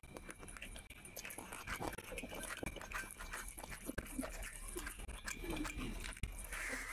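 Close-miked wet chewing and mouth smacks of someone eating a handful of curry-soaked rice, with squelching as fingers mix rice on the plate. Many short irregular clicks and smacks.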